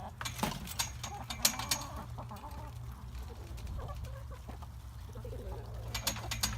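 A flock of chickens clucking softly while pecking at feed scattered on the ground, with scattered sharp clicks, loudest in the first two seconds and again near the end, over a steady low rumble.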